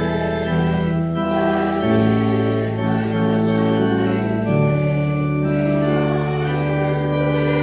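Church organ playing slow, sustained hymn chords that change every couple of seconds.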